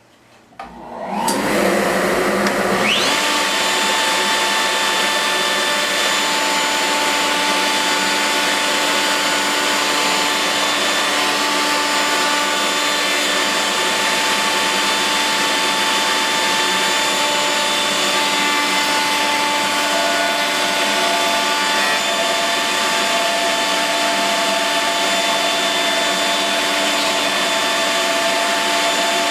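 Electric router starting up about a second in, its whine rising to speed, then running steadily while rounding over the edges of a plywood chair part.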